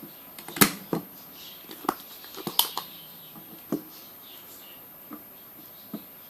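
Irregular sharp clicks and light knocks, about a dozen, typical of small hard objects such as tools, screws or parts being handled on a work surface. The loudest come about half a second in and again around two and a half seconds in, then they thin out.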